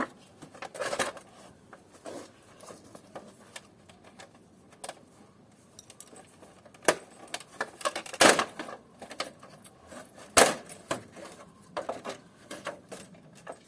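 Air-conditioner parts being taken apart and handled by hand: scattered clicks, taps and clatter of hard parts, with two sharper knocks a little past the middle.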